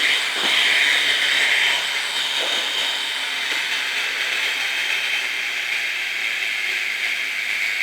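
Helicopter running: a steady high-pitched whine with hiss.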